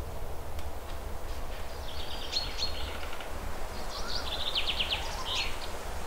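Birds calling among trees: a few short high chirps about two seconds in, then a fast trill of chirps near the end, over a steady low rumble.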